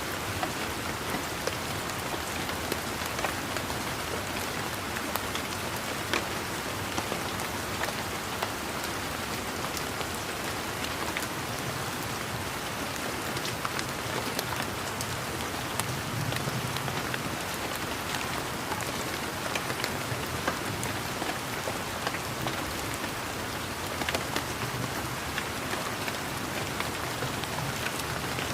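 Steady rain falling on leaves and ground: an even hiss with many individual drops ticking sharply at random.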